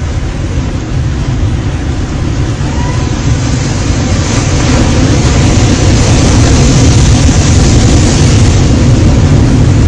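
Heavy surf: big waves breaking on the beach in a loud, continuous rush of noise that swells louder about halfway through as a wave crashes.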